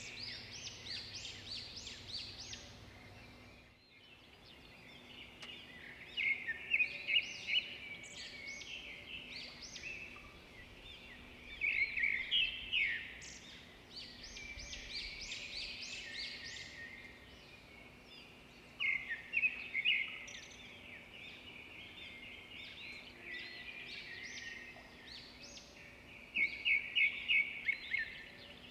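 Small songbirds chirping and twittering in quick runs of sharp, high notes that come in bursts every few seconds.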